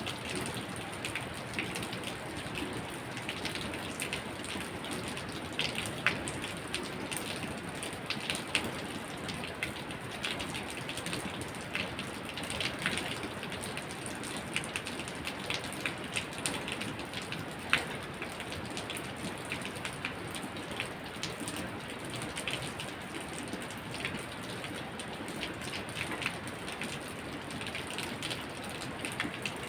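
Steady rain falling, with many irregular sharp drop impacts ticking over the hiss and a few louder ones standing out.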